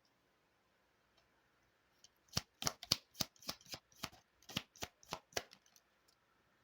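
A deck of Lenormand cards being shuffled by hand: a quick run of about a dozen short card snaps, starting about two seconds in and lasting some three seconds.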